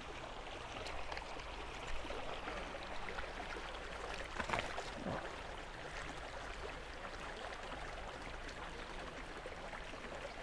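Running water flowing steadily from outlets in the hillside, with a brief louder noise about four and a half seconds in.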